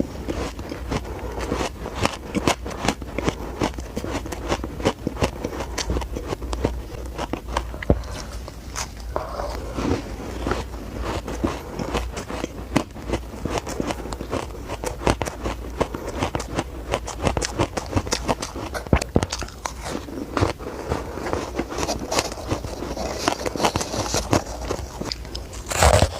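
Close-miked biting and chewing of squeaky shaved ice: a dense, irregular run of crunches and crackles, many sharp cracks close together.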